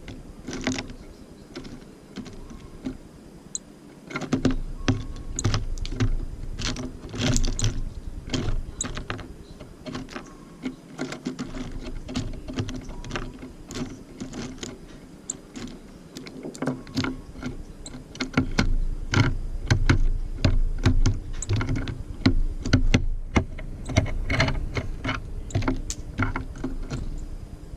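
Tits pecking and scrabbling at a bird feeder close to the microphone: a busy, irregular run of sharp clicks and taps, thickest from about four seconds in and again in the last third.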